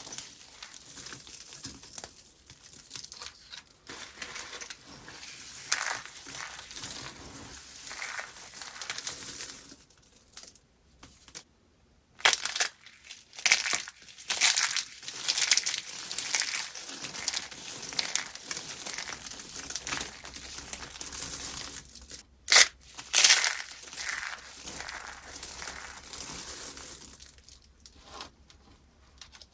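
Dry soap being crushed, with crisp crunching and crackling throughout. It pauses briefly a little before the middle, then comes back louder in bursts, with two sharp, loud crunches about two-thirds of the way through.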